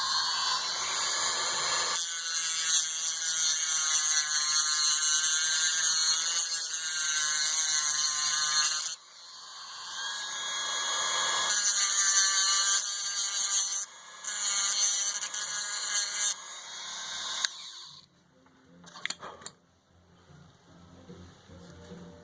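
Small high-speed rotary grinding tool running under load with a high whine, grinding off the rivet and crimped flange of an old Holley fuel pump to open it up. It stops about nine seconds in, runs again with a short break, and stops for good a few seconds before the end, followed by faint clicks.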